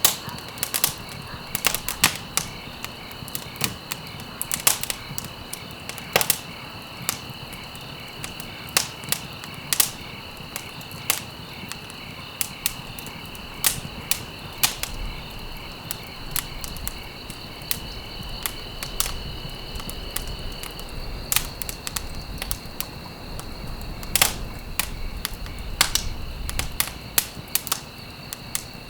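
Campfire crackling, with sharp irregular pops of burning wood over a low rumble that grows in the second half. A steady high chirring of crickets runs underneath, one of its tones dropping out about two-thirds of the way through.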